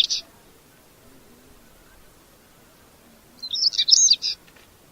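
Song of a Saxicola chat: the end of one phrase right at the start, then, past three seconds in, one short phrase of rapid, scratchy warbled notes lasting about a second.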